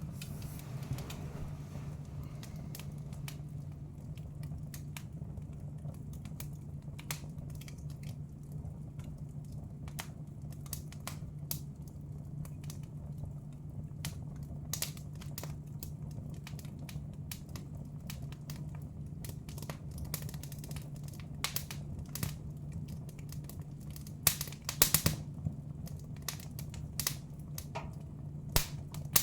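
Wood fire in a fireplace crackling, with irregular sharp pops and a cluster of louder pops near the end, over a steady low hum.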